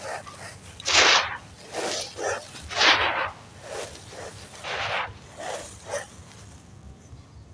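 Clumps of crispy dry sand crumbling in a clay pot: a series of short crunching bursts, roughly one a second, the loudest about a second in and about three seconds in, dying down over the last two seconds.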